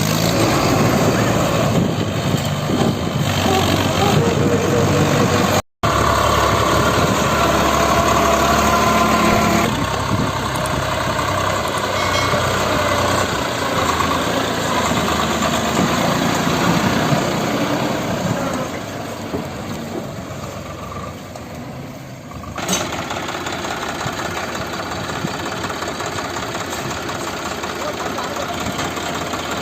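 Diesel tractor engines running, with people's voices over them. The sound cuts out for an instant about six seconds in.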